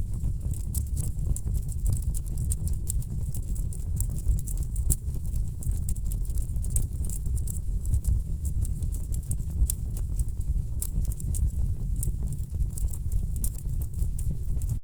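Wood fire burning in a fireplace: many sharp, irregular crackles and pops of burning logs over a steady low rumble of the flames.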